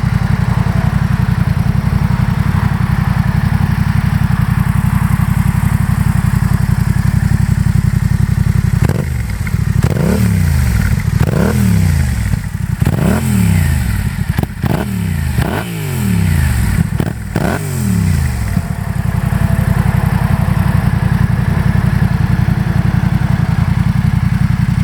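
2018 Yamaha MT-07's parallel-twin engine through a Yoshimura full exhaust with the street baffle fitted, idling steadily, then blipped about six times in quick succession from roughly a third of the way in, each rev rising and falling, before settling back to idle.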